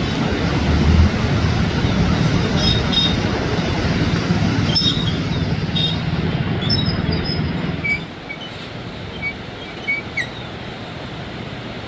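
Fast, swollen river water rushing under a bridge after heavy rain: a loud steady rush with a low rumble, which drops suddenly to a quieter rush about eight seconds in. A few faint short high chirps sound near the end.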